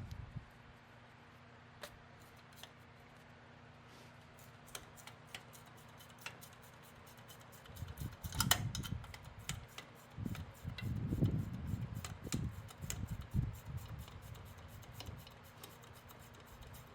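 Hand tools on a 7.3 IDI diesel engine as the compressor is unbolted: scattered light metallic clicks and ticks, with low knocks and bumps about halfway through as parts are handled.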